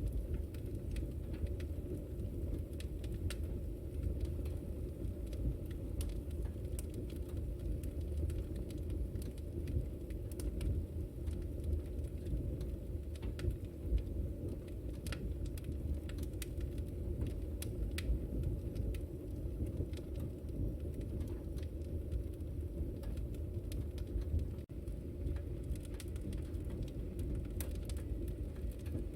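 Wood fire crackling in a fireplace: a steady low rumble of flames with frequent, irregular sharp crackles and pops.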